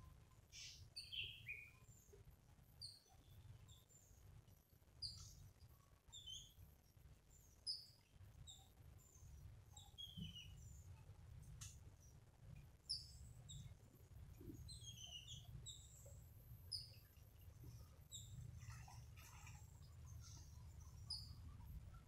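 Small birds chirping: many short, high chirps scattered irregularly, over a faint low rumble.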